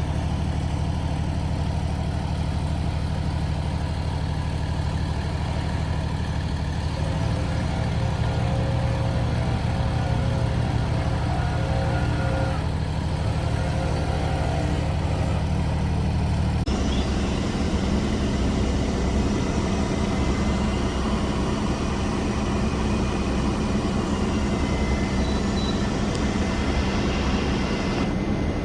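Heavy diesel machinery engine running steadily at a constant speed. About two-thirds of the way through the sound changes abruptly to a rougher, lower engine rumble.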